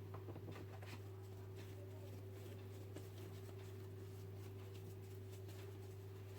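Steady low hum with many faint, scattered light taps and clicks.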